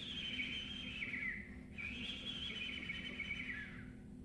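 A singer imitating a bird: two high, warbling whistled calls, each about two seconds long, held and then sliding down near the end.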